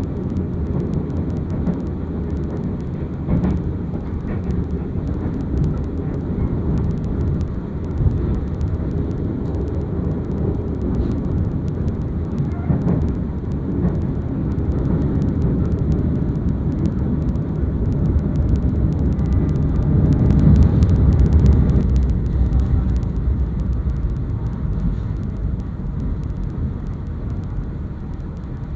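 Steady low rumble of a passenger train coach running on the rails, heard from inside the coach, swelling a little about twenty seconds in and then easing.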